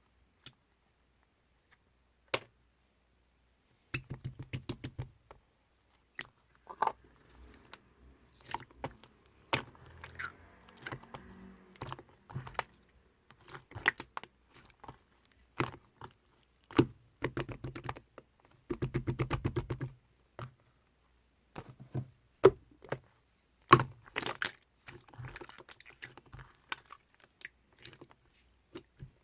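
Clear slime being squeezed and poked by hand, giving runs of sharp, sticky clicks and pops with softer crackling between.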